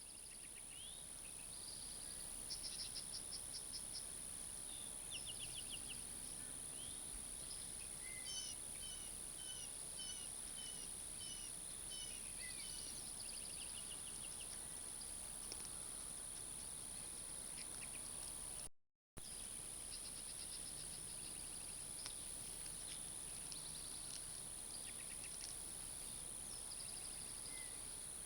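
Outdoor ambience of a steady high-pitched insect drone with songbirds calling over it, including a run of about eight evenly spaced chirps near the middle. The sound drops out completely for a moment about two-thirds of the way through.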